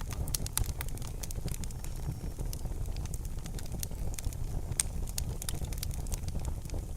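Fire in a fireplace crackling: many sharp, irregular pops and snaps over a steady low sound of the burning.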